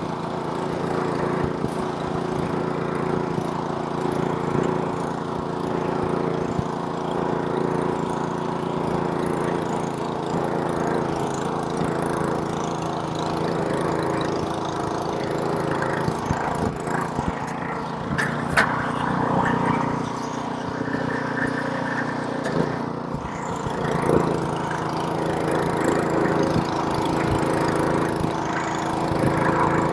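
Gasoline snowblower's small single-cylinder engine running steadily under load while throwing snow. Its pitch shifts for a few seconds in the middle as the load changes, with a sharp click or knock about two-thirds of the way through.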